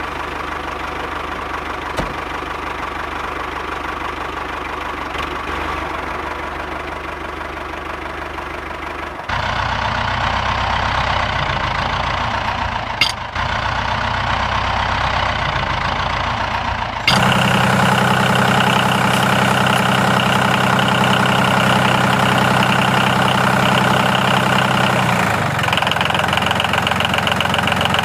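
Steady running of an engine or motor, like a tractor idling. Its pitch and tone jump abruptly about nine and seventeen seconds in and again near the end, with a single click midway.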